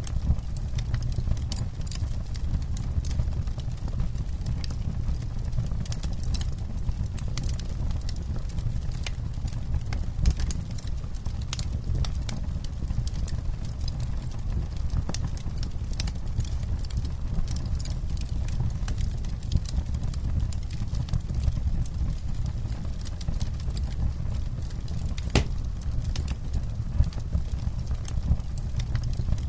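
Campfire burning: a steady low rumble of the flames with frequent sharp crackles and pops, one louder pop about 25 seconds in.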